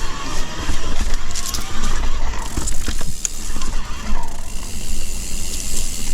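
Mountain bike rolling over a dirt trail: tyre noise and chain and frame rattle over roots and bumps, with the rear hub's ratchet clicking while coasting. There is steady low wind rumble on the microphone.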